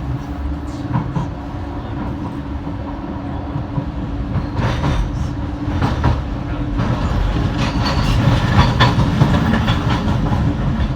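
Docklands Light Railway train running between stations, heard from inside the carriage: a steady rumble and hum with clicks of the wheels over the rails, growing a little louder about eight seconds in.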